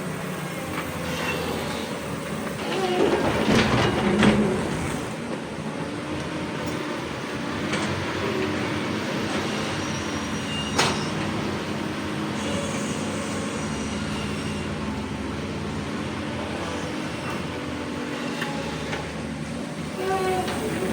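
Hydraulic excavator diesel engine running under working load, with hydraulic strain, louder for a couple of seconds near the start. A single sharp metallic clank about halfway through.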